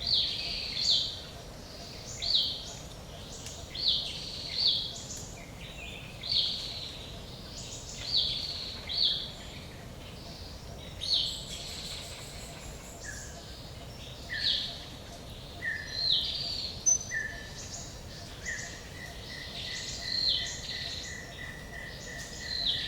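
Forest birdsong: one bird repeats short, high, falling chirps about once or twice a second. From about halfway a second bird joins with lower short notes that run into a long even trill near the end, over a faint steady background hiss.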